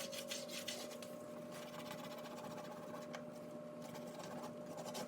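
Finish Powerball dishwasher tablet scrubbed rapidly back and forth on oven door glass, a run of short rubbing strokes over a steady faint hum.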